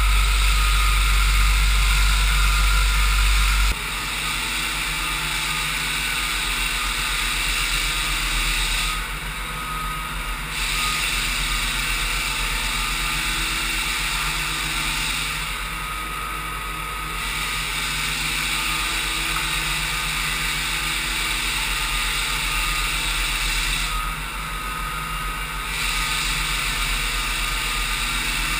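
Floor sander with its built-in vacuum running steadily as a hum with a hiss. A deep hum drops away a few seconds in, and the high hiss dips briefly three times.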